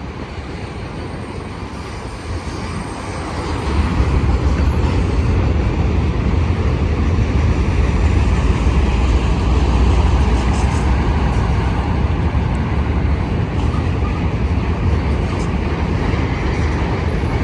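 Autorack freight cars rolling past on the main line: a steady rumble of wheels on rail that swells about four seconds in and stays loud.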